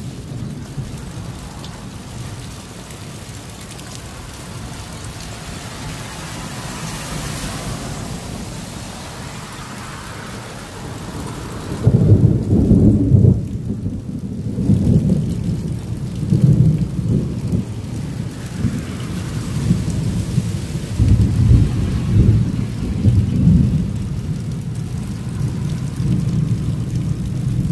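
Steady rain hissing; about twelve seconds in, thunder breaks with a sudden loud crash and keeps rolling in long, low rumbles that rise and fall in waves.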